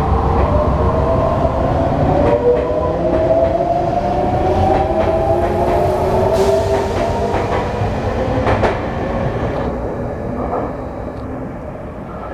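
Sotetsu electric commuter train pulling out of the station, its traction motors whining in several tones that climb steadily as it accelerates, with wheels clicking over rail joints. The sound fades over the last few seconds as the train moves off.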